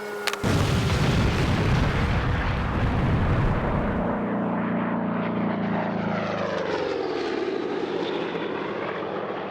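Electric-powered RC P-47D warbird model flying past, its brushless motor and propeller whirring. A heavy rushing noise fills the first four seconds, and the pitch drops past the halfway point as the plane goes by. A sharp click sounds just at the start.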